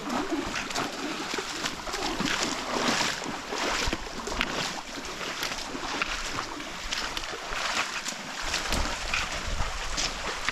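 Legs wading through a river, splashing with each stride, over the steady rush of flowing water.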